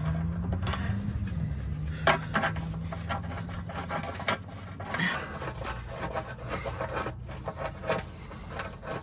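Scraping, rubbing and knocking of tools and hands working a tractor tire against its steel rim, in irregular clicks and scrapes. A motor hums steadily under it for the first four seconds or so, dipping briefly in pitch about a second in, then fades.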